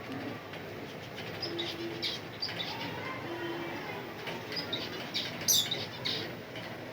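Parrot giving scattered short chirps and squawks, with one louder call about five and a half seconds in.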